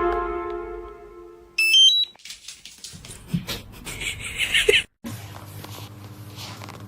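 Electronic sound effects: a ringing tone fading away, then a quick run of rising beeps, followed by scattered rustling noise that cuts off suddenly; after the cut, a steady low hum.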